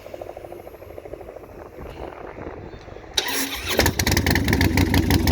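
Harley-Davidson 110 cubic inch V-twin with Vance & Hines slash-cut exhaust pipes starting up about three seconds in: a brief crank on the starter, then it catches and runs with a loud, even beat.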